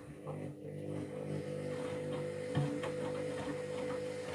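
Candy Grand'O Vita Smart Touch washing machine's motor running at a steady speed with a steady whine, turning the drum during the load-distribution stage of the cycle, with faint light ticks from the drum.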